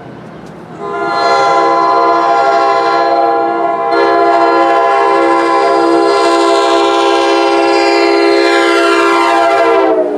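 Freight locomotive's multi-chime air horn blowing a long chord, with a brief break about four seconds in; near the end the pitch drops as the locomotive passes, then the horn cuts off.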